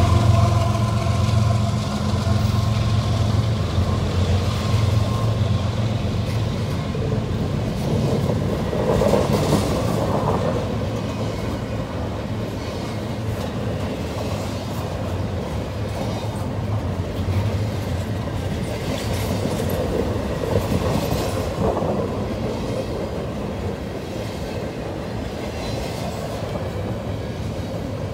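Double-stack intermodal freight cars rolling past, a steady rumble of steel wheels on the rails with some clickety-clack. The engine hum of the Nickel Plate Road heritage diesel locomotive that has just passed fades away over the first few seconds.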